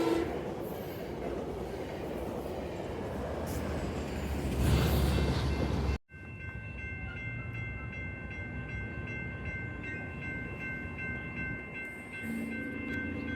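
Passing train's rolling rumble, swelling about five seconds in and cutting off suddenly; then a steady high ringing of several held tones, with a low hum coming in near the end.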